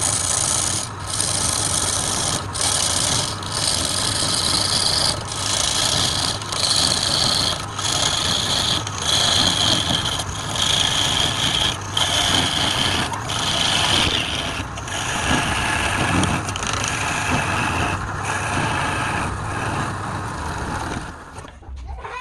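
Wood lathe with a turning tool cutting into the spinning wood: a continuous scraping hiss over the motor's hum, broken by brief dips about once a second. It stops about a second before the end.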